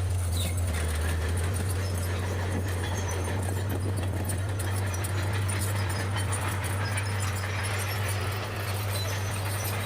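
Bulldozer's diesel engine running steadily with a low drone, with scattered light clicks and rattles over it.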